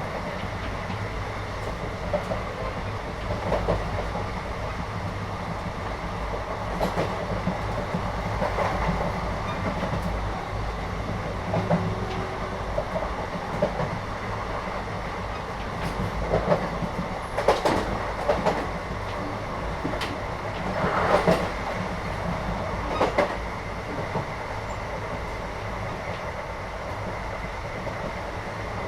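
Inside the carriage of a moving Indian passenger train: the steady rumble of the running train, with scattered knocks and rattles that bunch together about two-thirds of the way through.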